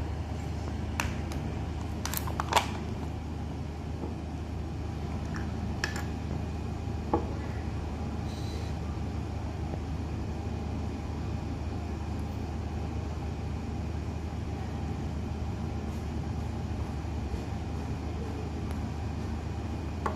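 Steady low hum with a few short clicks and knocks, the sharpest about two and a half seconds in.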